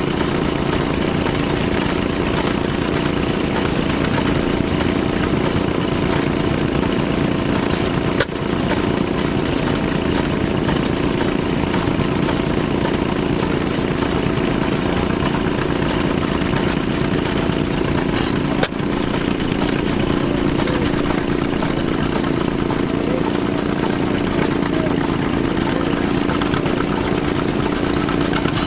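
Antique gasoline engine running steadily at an even speed, with two brief clicks, about a third and two thirds of the way through.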